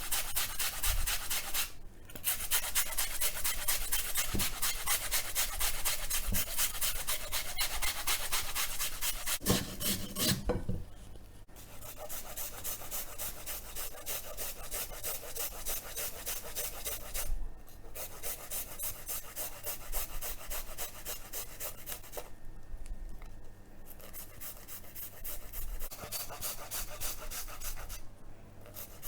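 Onion being grated on a hand grater: quick, rhythmic rasping strokes with a few short pauses, louder in the first part.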